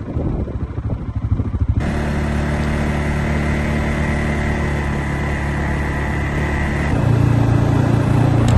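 Small vehicle engine running steadily, changing abruptly about two seconds in and dropping to a lower, louder note near the end.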